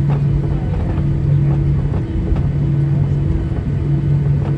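Cabin noise of a Boeing 737-800 taxiing: a steady low rumble with a low hum that swells and drops away about every second and a half.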